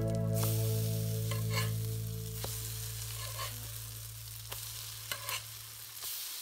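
Salmon-and-chicken patties sizzling in oil on a flat griddle, with short scrapes and taps of a metal spatula as they are lifted and flipped. Background music fades out under the sizzle.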